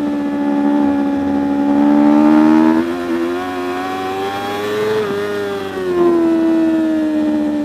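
Superbike racing motorcycle engine at high revs, its pitch sliding down and rising in steps about three and six seconds in, with a sharp dip just after five seconds as the gears are changed.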